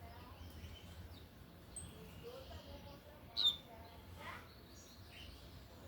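Double-collared seedeater (coleiro) giving a single short, sharp chirp, falling in pitch, about three and a half seconds in, with a few faint chirps around it.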